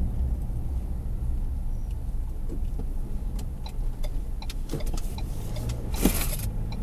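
Car engine and road noise inside a moving car's cabin: a steady low rumble, with a few light clicks and a short hiss about six seconds in.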